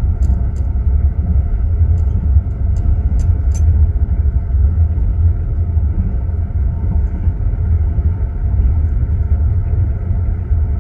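Passenger train running, heard from inside a sleeping compartment: a steady low rumble of the carriage on the rails, with a few faint light clicks in the first few seconds.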